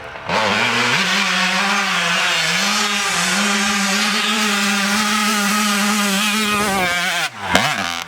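Dirt bike engine held at high, steady revs for about six seconds, then dropping off and blipped up and down twice near the end.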